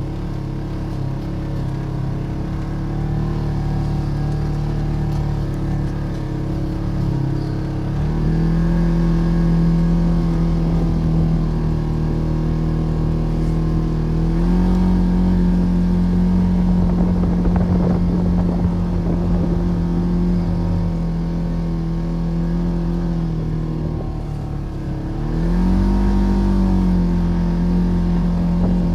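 Polaris RZR Trail side-by-side engine running steadily under load while driving through deep snow. Its pitch steps up about a third of the way in and again near the middle, sags briefly near the end, then rises again.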